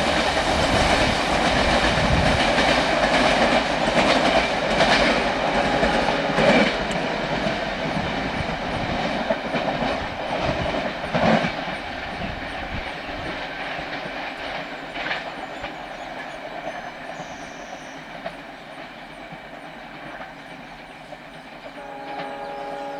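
Train cars rolling past on the track, wheels knocking over rail joints in a clickety-clack, the sound fading steadily as the train moves away. A short horn sounds near the end.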